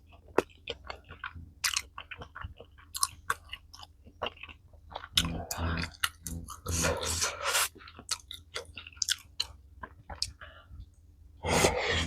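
Close-miked chewing of food, with many short wet mouth clicks and a few crunches, and two longer stretches of louder chewing noise about five seconds in and again around seven seconds.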